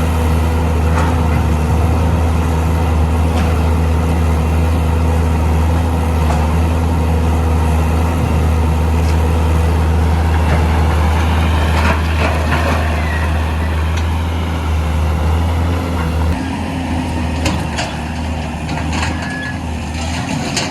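Heavy diesel engine of working earthmoving machinery running steadily with a deep hum, with a few sharp knocks over it. The engine eases slightly near the end.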